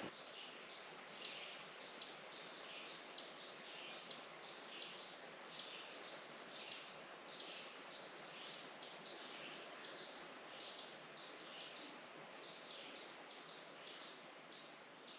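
Birds chirping: short high notes, about two or three a second, over a faint steady background rush.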